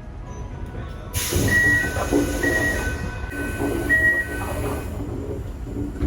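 Sounds aboard a Toei 5300 series subway train: low running rumble, then about a second in a sudden loud hiss starts, with a few steady high tones switching between two pitches over it, fading out about a second before the end.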